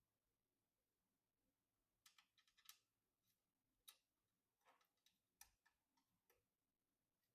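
Faint, irregular clicks and taps of small computer parts being handled during a PC build. They come in a quick flurry about two seconds in, then as single clicks and a second short cluster.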